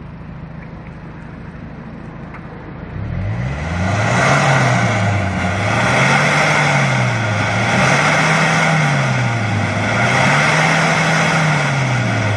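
A 2003 Kia Sorento's diesel engine, heard from behind at the exhaust, idles steadily and then, about three seconds in, is revved up and let back down about four times, roughly every two seconds. The revving is a free-acceleration smoke test of the exhaust.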